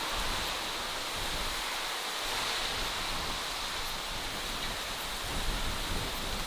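Steady natural outdoor ambience: an even rushing hiss with an uneven low rumble underneath.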